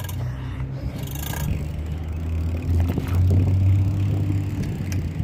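A car driving past, its low rumble growing loudest about three seconds in.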